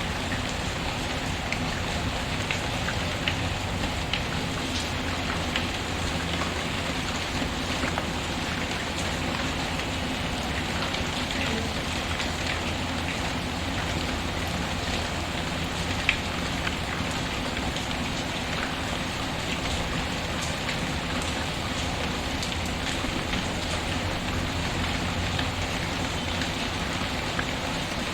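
Steady rain patter mixed with the scattered small crackles and pops of a wood fire in a fireplace, with one louder pop about sixteen seconds in.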